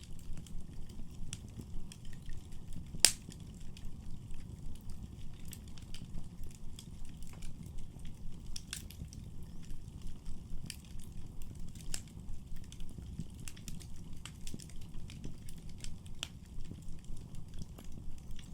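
Wood fire burning in a fireplace: a steady low rumble of flames with many small sharp crackles, and one much louder pop about three seconds in.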